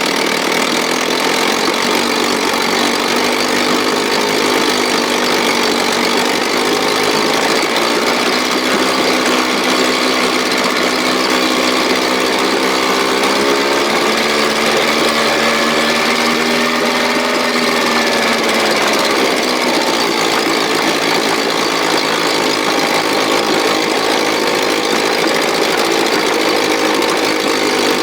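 1957 Sea King 5 hp two-stroke outboard motor running steadily, its speed rising about halfway through and then dropping back.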